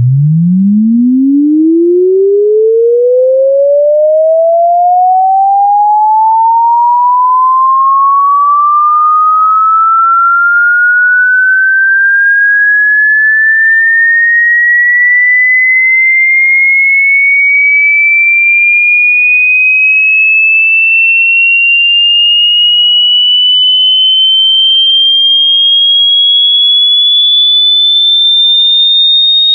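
A loud, electronically generated pure sine tone sweeping steadily upward in pitch, from a low hum to a high whistle. It rises quickly at first and then more and more slowly.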